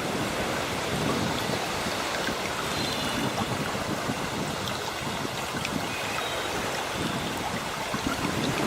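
Steady wash of sea water, with faint high bird chirps now and then.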